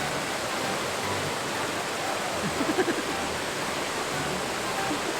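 Steady rushing of a waterfall, with a brief pitched sound, likely a voice, about two and a half seconds in.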